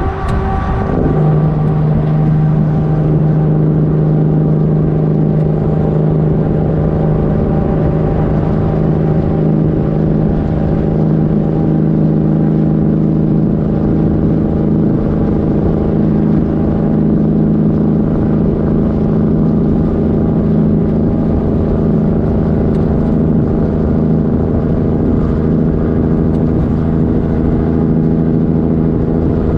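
Kenworth W900 truck's diesel engine running through straight pipes, a loud, steady exhaust drone under load. Its pitch shifts about a second in, then holds steady.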